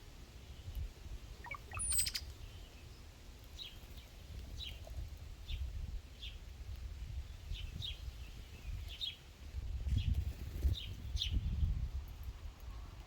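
A bird giving short, sharp chip calls, repeated roughly once or twice a second from a few seconds in, with a brief higher call about two seconds in, over a low rumble.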